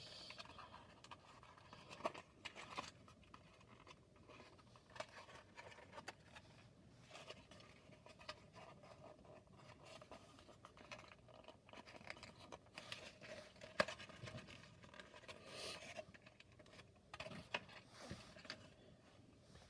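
Faint scraping and scattered light clicks of cardboard and plastic playset parts being handled and fitted together, with one sharper click about two-thirds of the way through.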